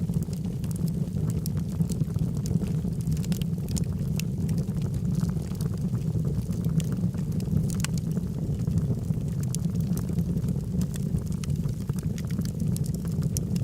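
Log fire burning in a fireplace: a steady low rumble of flames with many small, sharp crackles and pops scattered throughout.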